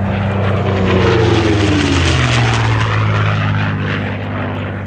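A P-51A Mustang's Allison V-12 engine and propeller make a low-level pass. The engine drone is loudest about a second in, then its pitch falls as the plane goes by and the sound slowly fades.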